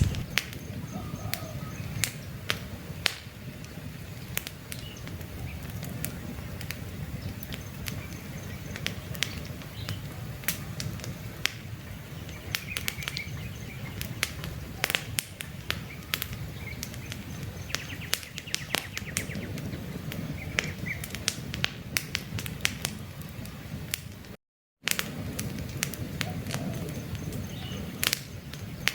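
Campfire burning, with frequent sharp crackles and pops over a low steady rumble of flame. Birds chirp briefly now and then, and the sound cuts out for a split second about three-quarters of the way through.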